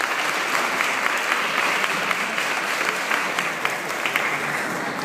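Crowd applauding: dense, steady clapping that begins to ease off near the end.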